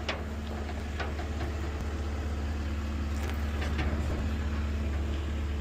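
Truck engine running steadily at low revs as the truck is backed up, with a few light knocks and clicks over it.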